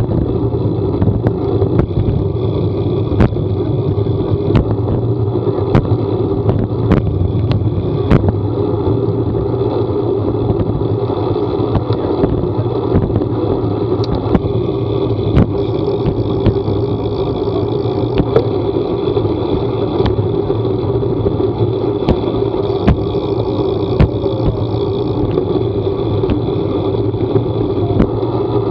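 Steady running noise of a vehicle on the move, a constant low hum under an even rush, with frequent short sharp ticks scattered throughout.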